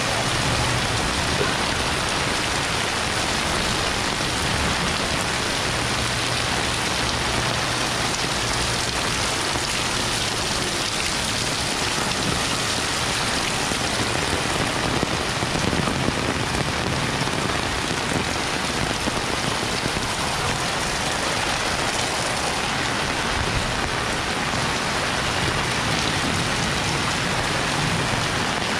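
Heavy rain pouring down steadily, a dense, even hiss of rain hitting surfaces. Underneath, a faint low hum comes and goes a few times.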